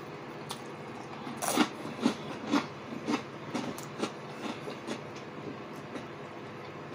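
Close-miked chewing of rye toast: a run of short clicks about two a second, loudest about a second and a half in and growing fainter toward the end.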